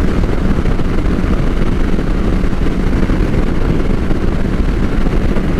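Motorcycle cruising at highway speed: a steady rush of wind and road noise on the microphone over a low, even engine drone.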